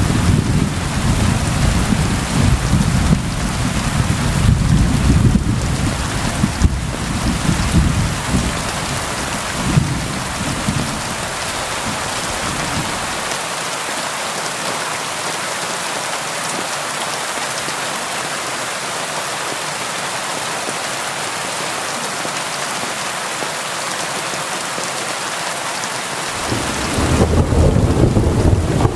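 Steady rain falling, with thunder rolling low for roughly the first ten seconds. The thunder then dies away, leaving only the even hiss of the rain, and another roll of thunder starts near the end.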